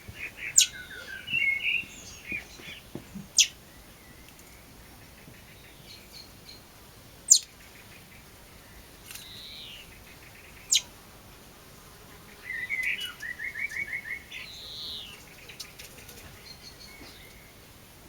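Small birds chirping: two short, rapid runs of high chirps, about a second in and again a little past the middle, with a few fainter calls between. Four sharp, very short clicks stand out louder than the birds.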